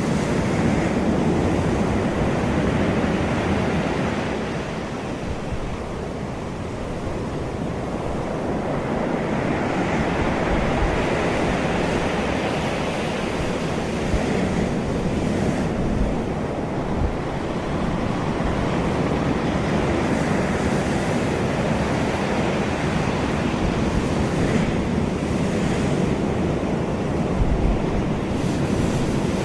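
Sea surf breaking and washing up a beach: a continuous rushing noise that swells and eases every several seconds as waves come in, with a few brief low rumbles of wind on the microphone.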